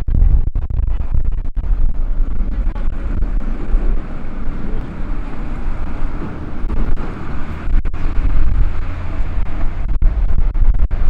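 Gusty wind buffeting the microphone, a heavy rumble that swells and drops, over a steady noise of city street traffic.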